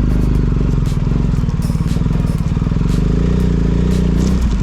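Motorcycle engine running steadily under way, with wind and road noise. There is a brief break in the engine note near the end.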